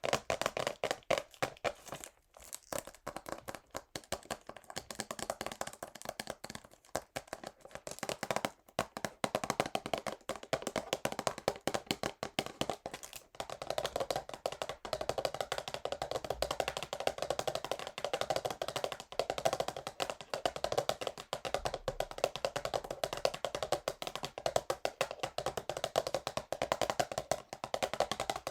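Fingernails tapping fast on a cardboard perfume box: a rapid, dense stream of taps, broken by a few short pauses.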